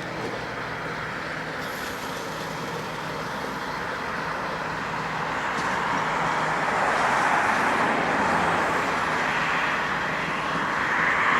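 Steady rushing noise of a passing vehicle, growing louder from about six seconds in.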